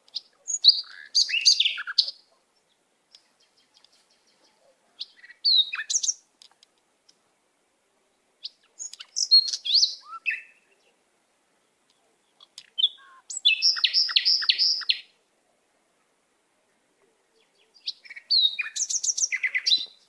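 A songbird singing five short, varied phrases a few seconds apart, with silence between; the middle phrase is a quick run of the same note repeated about six times.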